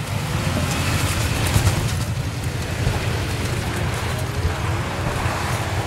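Jeep Cherokee XJ engine running under load as it climbs a loose pea-stone hill, a steady, heavy low-pitched sound.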